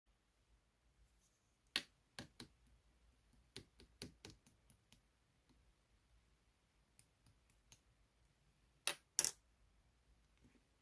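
Chewy light-purple slime being handled, giving scattered sharp clicks and pops as air pockets burst, with the two loudest pops close together about nine seconds in.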